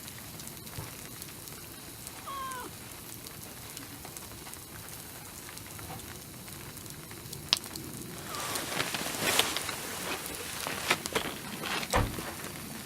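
A cat gives a short meow about two seconds in, and a fainter cry later. From about eight seconds in come irregular crackles and clicks, and a dull thump near the end.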